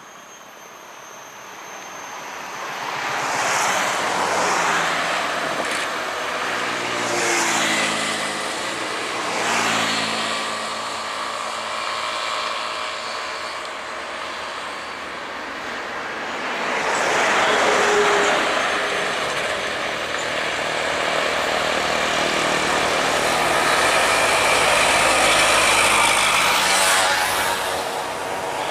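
Road traffic on a hill: trucks and other vehicles passing one after another, engines running under load with tyre noise, swelling loud as each goes by. The loudest passes come around 4, 7, 10, 18 and 26 seconds in.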